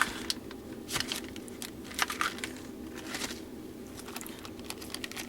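Rummaging through craft supplies: plastic packaging and containers rustling and crinkling, with scattered light clicks and taps about a second apart.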